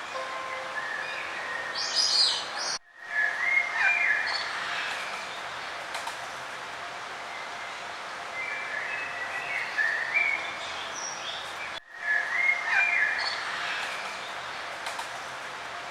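Several songbirds singing and chirping in short, repeated phrases over a steady background hiss. The sound drops out completely for a moment twice, about three seconds in and again near twelve seconds.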